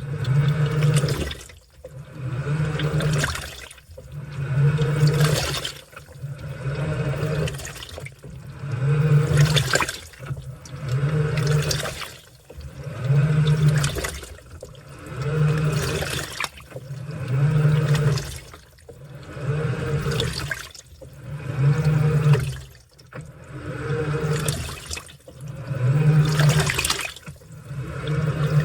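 Washing machine in its wash cycle: the motor churns the water and laundry in pulses of about a second and a half, pausing and reversing roughly every two seconds, with a low motor hum under the sloshing water.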